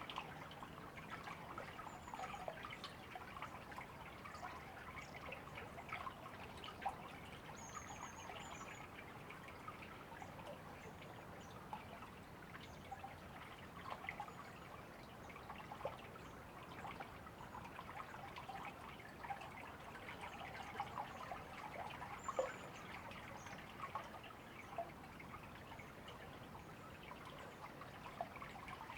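A shallow river trickling and bubbling steadily over stones. A few faint, short, high bird chirps come through now and then, at about two seconds, eight seconds and twenty-two seconds.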